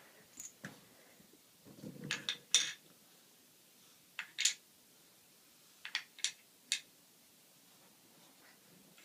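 Pencils clicking and clattering against each other and a toy truck as they are scooped up: light, sharp clicks in small groups every second or two.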